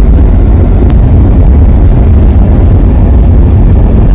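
Loud, steady rumble of a car on the move: road and wind noise.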